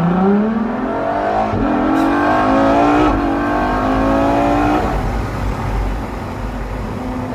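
LaFerrari Aperta's V12 petrol engine cutting in from electric mode and revving hard under acceleration. Its pitch climbs, drops at upshifts about one and a half and three seconds in, then eases off about five seconds in. Wind buffets the open cockpit.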